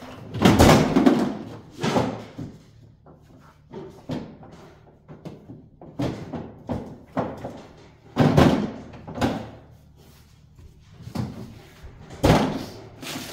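Frozen packages, containers and ice packs being handled, knocked together and set down while a freezer is emptied and reorganized: an irregular run of clunks and bangs, loudest near the start, about eight seconds in and near the end.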